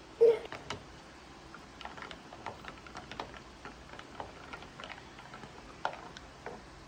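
A loud knock about a quarter second in, followed by irregular light clicks and taps.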